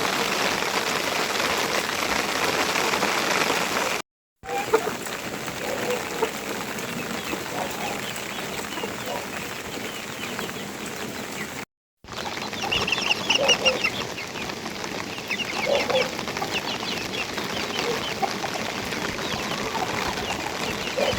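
Steady rain falling, with chickens clucking and short high cheeps in the later part. The sound drops out briefly twice.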